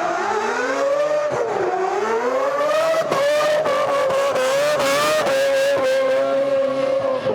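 Drift car's engine running at high revs on track. Its pitch dips briefly about a second in, then climbs and is held steady near the top of the rev range.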